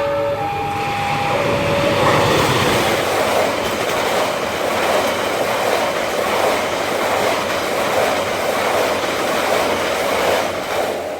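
A train passing close by, a loud steady rush of wheels on rails with a regular clickety-clack over the rail joints. In the first two seconds two alternating horn tones sound and then stop.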